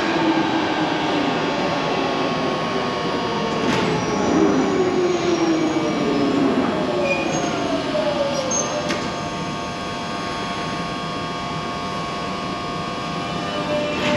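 Underground train running, with several whining tones that glide down in pitch and then rise again as it changes speed, over a steady rumble.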